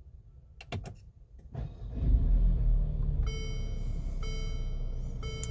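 2017 Mercedes-Benz B250's 2.0-litre turbo four-cylinder being started after a few clicks: the starter cranks it with a metal-on-metal noise from the starter motor, which is not normal, then the engine catches and settles to a steady idle. A warning chime sounds about once a second over the idle.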